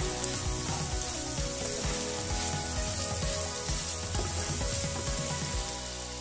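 Egg bhurji sizzling in a frying pan as a wooden spatula stirs it, with repeated soft knocks of the spatula against the pan that stop near the end.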